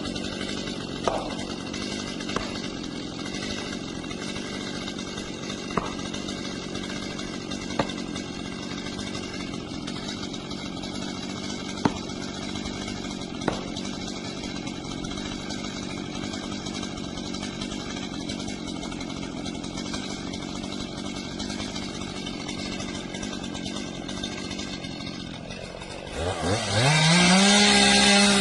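Chainsaw idling steadily, with a few sharp knocks over it, then revved up near the end, its pitch rising quickly and holding high at full throttle.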